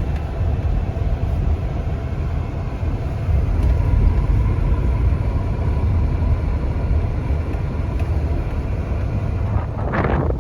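Steady low rumble of a vehicle's engine and tyres on the road, heard while driving, with a faint steady whine. Near the end, uneven gusts of wind start buffeting the microphone.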